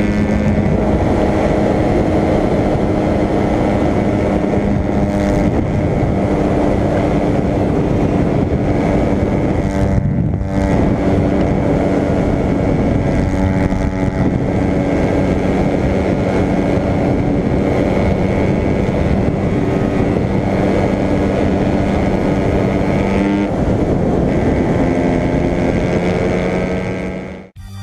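Motorcycle engine running steadily at speed, its drone mixed with heavy wind rush. The engine note dips briefly about ten seconds in and changes pitch a few seconds before the sound cuts off abruptly at the end.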